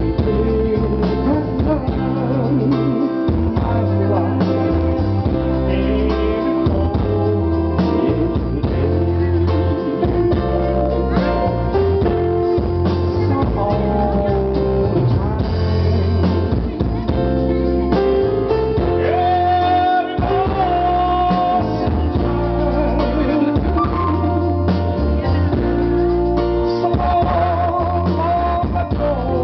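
Live band music with guitar, bass and drum kit, and a man singing a Western pop song.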